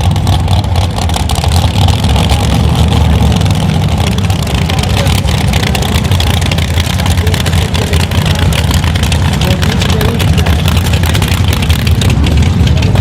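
Rat rod's big high-horsepower engine running loudly with a rapid pulsing rumble, holding a steady level rather than rising in a rev.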